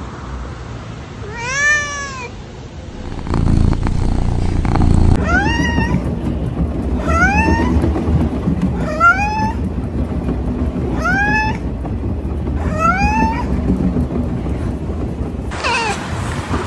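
A cat meowing again and again, one rising-then-falling meow about every two seconds, over a steady low background noise.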